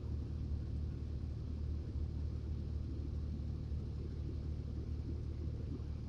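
Rollback tow truck's engine idling, a steady low rumble heard from inside the truck's cab.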